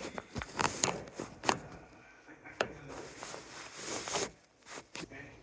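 Rustling and scraping handling noises with several sharp clicks, quieter toward the end.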